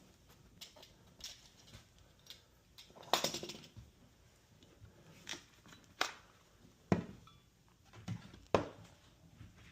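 Hand-work noises of drywall repair: scattered light knocks and clicks, with a short scraping rush about three seconds in and sharper knocks near the end.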